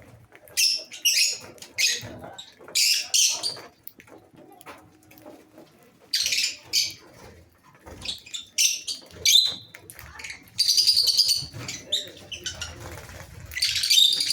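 Flock of lovebirds calling: short shrill bursts of chirping and squeaking, coming one after another at irregular intervals.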